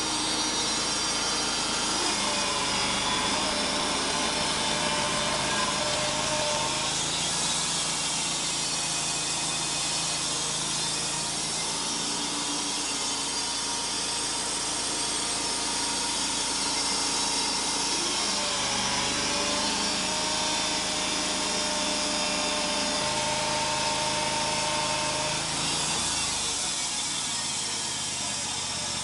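Wood-Mizer band sawmill cutting a Western Red Cedar log, its engine and blade running steadily. A whine comes in twice, a couple of seconds in and again past the middle, and the low sound shifts near the end.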